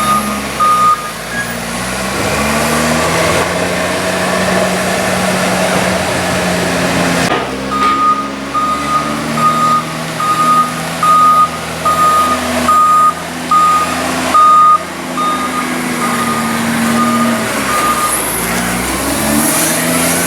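Diesel engine of a heavy farm vehicle running, its pitch rising and falling as it works. A reversing alarm beeps briefly at the start, then again steadily, about one beep every 0.7 seconds, for about ten seconds from the middle on.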